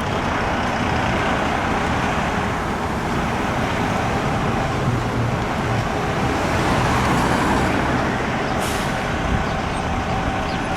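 Diesel engine of a 2003 Seagrave Marauder fire engine running steadily, with a short hiss of air about nine seconds in.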